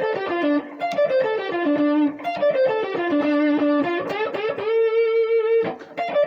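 Electric guitar playing a blues lick: quick runs of single notes stepping down in short repeated phrases, built from the minor third, root, flat seventh and fifth. About five seconds in, one note is held for nearly a second with slight vibrato before the playing cuts off briefly and starts again.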